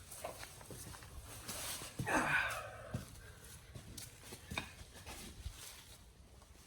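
Scattered light clicks and knocks of hand tools being handled on the car's suspension, with a louder rasping scrape about two seconds in.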